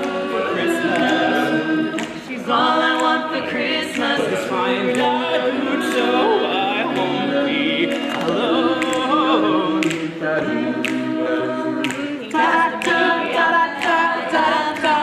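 An a cappella vocal group singing a Christmas love song in close harmony, voices layered with no instruments.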